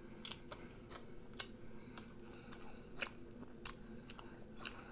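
Quiet chewing with scattered wet mouth clicks, irregular and a few each second, over a faint steady hum.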